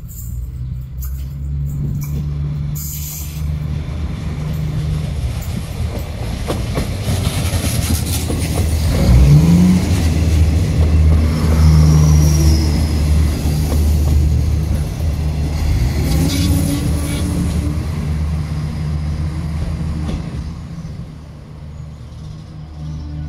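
Renfe Media Distancia passenger train running into the station alongside the platform, a steady low hum of motors and wheels that builds to its loudest about nine seconds in as the train draws level, then eases off near the end.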